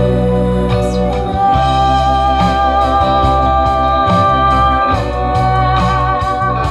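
Instrumental music played through a car's aftermarket audio system (Sennuopu DSP, Hertz speakers, MB Quart underseat subwoofer). Sustained organ-like keyboard chords sit over a deep bass line, with steady cymbal-like ticks about three times a second and no vocals.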